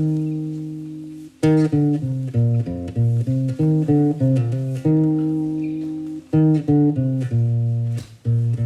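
Live band playing an instrumental intro on guitar and bass: plucked notes and chords that ring out and fade, with a long held chord at the start and another about five seconds in.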